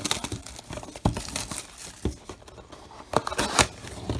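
Plastic shrink-wrap and cardboard of a trading-card box crinkling and tearing as it is opened by hand, in irregular rustles with a few sharper crackles.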